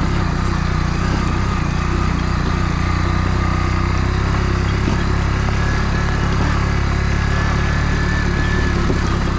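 Kawasaki W175's single-cylinder engine running steadily under way.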